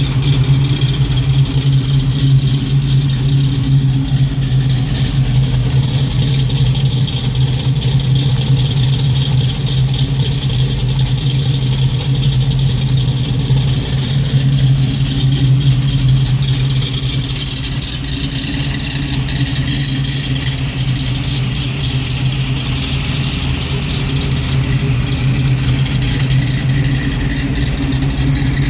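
1980 Buick Regal's forged 383 V8, fed by a FAST EZ-EFI 2.0, idling steadily through a Pypes exhaust with Street Pro mufflers. The level sags slightly about seventeen seconds in.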